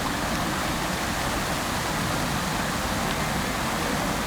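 Fountain water falling and splashing into its basin: a steady, even rushing.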